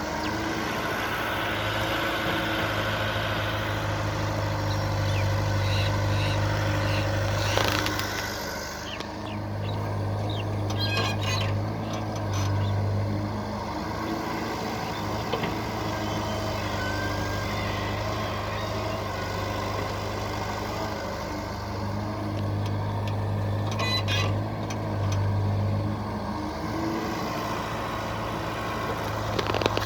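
Diesel engines of JCB 3DX backhoe loaders and a Tata 2518 truck running while sandy soil is loaded, the engine note swelling and easing as the machines work. A few sharp knocks come through, about a third of the way in and again near the end.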